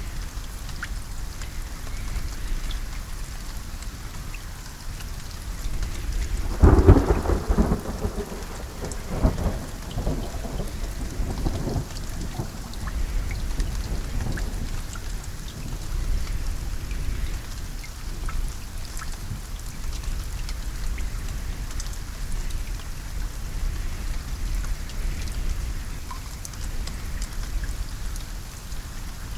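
Steady rain falling, with scattered drops ticking. A few seconds in, a clap of thunder breaks and rumbles on for about five seconds before fading back under the rain.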